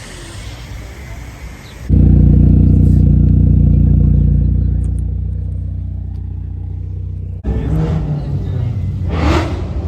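A car engine, loud and held at steady high revs, starting abruptly about two seconds in and easing off before cutting out; near the end a vehicle goes past.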